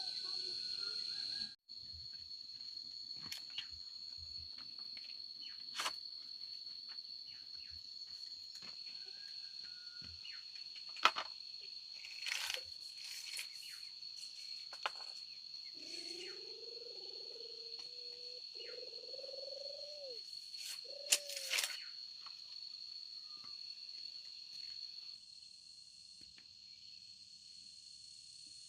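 Steady high-pitched insect chorus, crickets, with scattered short clicks and knocks over it and a few brief rising calls in the middle.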